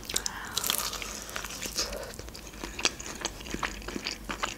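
Close-miked chewing of fried chicken: irregular small crunches and wet mouth clicks.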